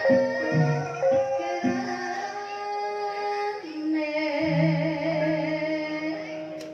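Banyumasan gamelan music in the ebeg style with a woman's singing voice. Struck notes come in quick succession at first, then a long wavering sung note is held from about halfway through.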